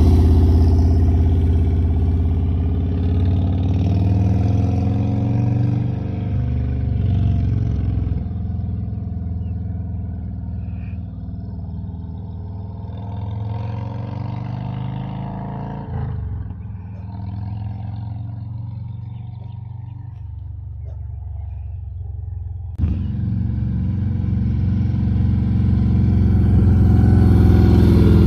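Harley-Davidson Street Glide Special V-twin running through Sharkroad 4.5-inch aftermarket mufflers, with the exhaust note shifting in pitch as the engine revs. The sound fades lower for a while, then comes back loud suddenly about two-thirds of the way through and rises toward the end.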